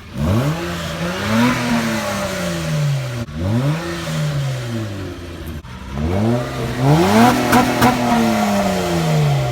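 2003 Acura TL Type S's 3.2-litre V6 revved three times with its stock mufflers still fitted, each rev climbing quickly and then sinking slowly back toward idle.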